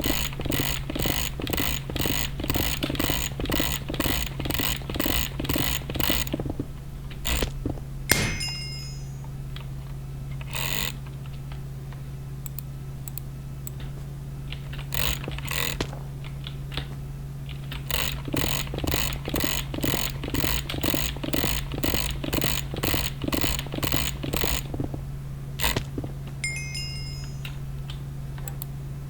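Runs of rapid, evenly spaced mechanical clicking, about three clicks a second, that stop and start again. Between the runs come a few single clicks and two brief high ringing tones, over a steady low hum.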